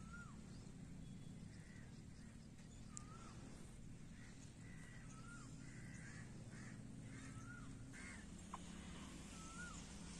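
Faint bird calls repeated through the garden air: short notes that rise and then fall, several in a row a second or two apart, over a steady low hum.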